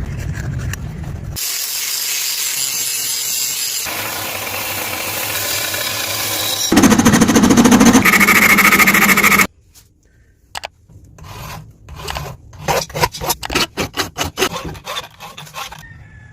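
Metalworking tool sounds on a steel bolt being shaped into a kunai: a steady rasping, grinding noise that gets louder and cuts off suddenly, then a quick run of sharp taps, about three or four a second.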